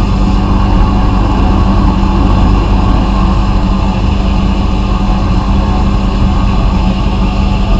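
Vapor-blasting equipment running steadily: a continuous loud hiss of the blast over a steady low motor hum.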